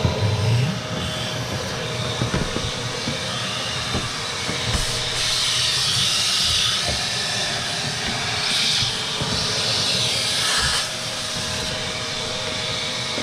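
Vacuum cleaner running with a steady hiss and motor whine, sucking dust and debris out of a dirty RV air conditioner unit; the rush of air grows sharper twice as the nozzle moves, then eases near the end.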